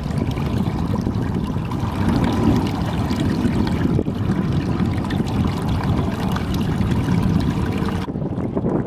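Steady rushing of heavy rain and running rainwater, with a strong low rumble. Near the end the high hiss cuts out abruptly.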